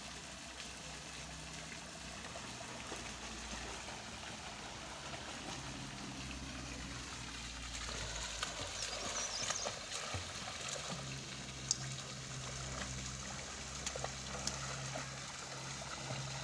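Running water trickling and flowing steadily, with a few faint clicks and splashes.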